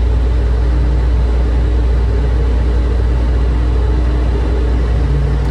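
Airport people-mover train running, a steady low rumble heard from inside the car.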